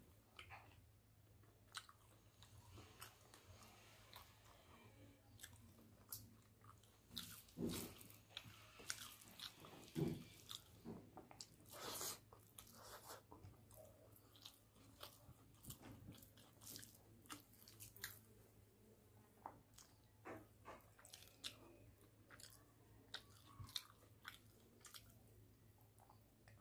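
A man chewing mouthfuls of rice and curry eaten by hand: quiet, wet mouth sounds, with many short smacks and clicks of lips and tongue and a few louder ones before the middle.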